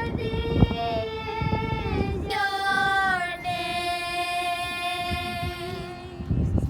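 A woman's voice singing long held high notes, dropping to a lower sustained note a couple of seconds in. Low outdoor rumble runs underneath.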